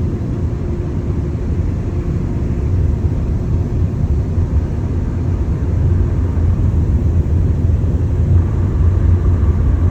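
Ryko SoftGloss XS 2.5 car wash dryer blowers running, heard from inside the car as a steady low rumble that grows somewhat louder partway through. A faint steady tone joins about eight seconds in.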